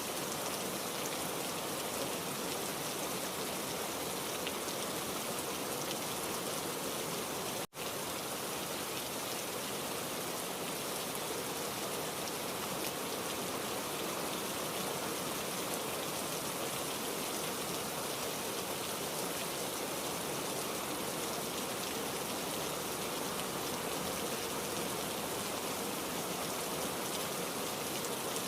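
Heavy rain falling steadily, an even hiss with no thunder. The sound cuts out for an instant about eight seconds in, then resumes.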